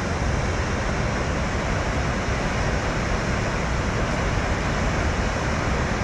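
Steady roar of water discharging from Kinzua Dam's outlet into the river below, an even rushing noise with a deep low end.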